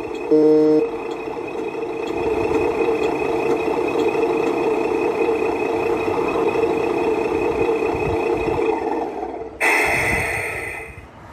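A short truck horn blast, then a truck engine running steadily with a thin high tone held over it. Near the end a brighter, louder sound starts and then fades out.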